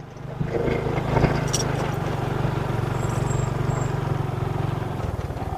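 Motorcycle engine running steadily, with wind and road noise over it; the engine note changes slightly near the end.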